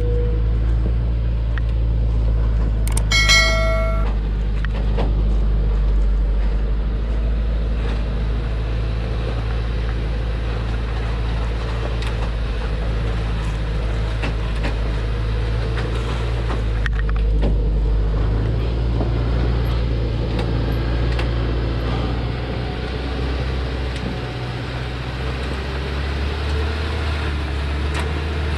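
Loaded Thaco truck's engine running with a steady, low rumble as it comes down a mountain slope. About three seconds in there is a short pitched beep, like a horn.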